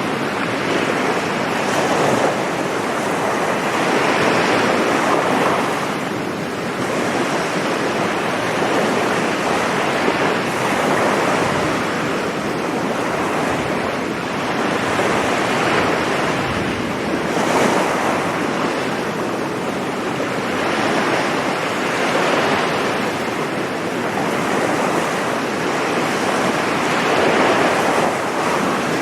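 Sea surf breaking and washing on a beach: a continuous rush of noise that swells and eases every few seconds as the waves come in.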